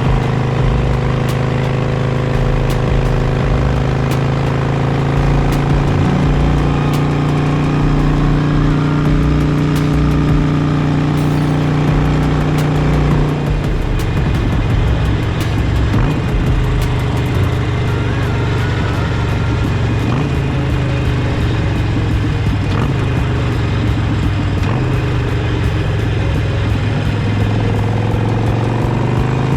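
Harley-Davidson Sportster's V-twin engine running at a steady cruise under wind noise. Its pitch drops about halfway through and starts rising again near the end.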